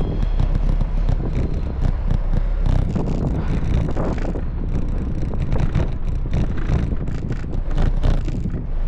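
Wind buffeting the microphone on a moving bicycle, a steady low rumble with frequent small clicks and rattles running through it.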